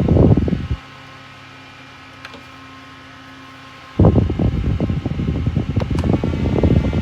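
TOPK portable battery desk fan running, its airflow buffeting the microphone with a loud low rumble. For about three seconds in the middle the rumble drops away, leaving the fan's faint steady hum, then it comes back.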